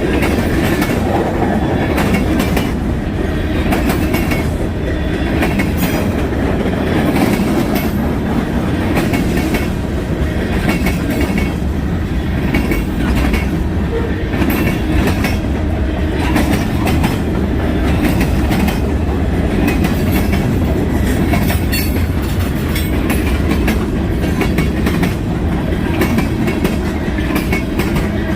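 Freight train cars rolling steadily past, their steel wheels clacking over the rail joints.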